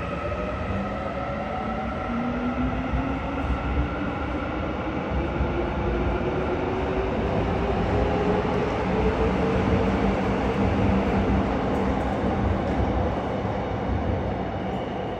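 Korail electric commuter train pulling out of an underground platform, its motors whining in several tones that rise steadily in pitch as it accelerates, over a rumble of wheels on rail. The sound grows louder toward the middle and begins to fade near the end.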